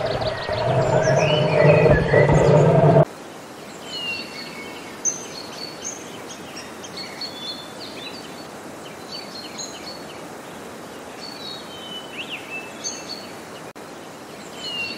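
An African elephant calling loudly for about three seconds, cut off abruptly. Then many small birds chirp and whistle in short, scattered calls over a steady background hiss.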